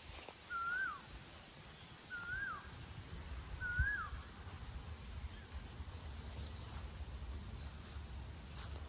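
A bird gives the same short call three times, about a second and a half apart. Each call is a brief held note that lifts slightly, then drops away. A faint steady high hiss runs underneath.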